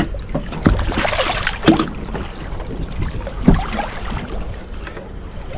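Steady low wind rumble on the microphone and water around a small boat's hull, with scattered knocks and clicks from the boat and the fishing gear.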